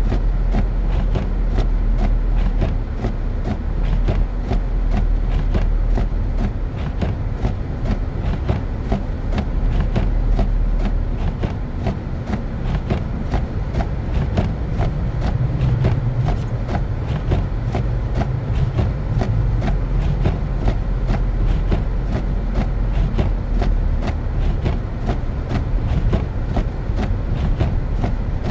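Car driving on a snow-covered road: a steady low rumble of engine and tyre noise, with a constant fine crackle over it.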